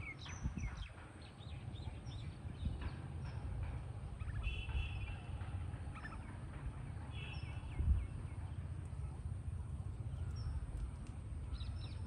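Many birds chirping and calling, with short bursts of rapid chattering calls twice, over a low rumble.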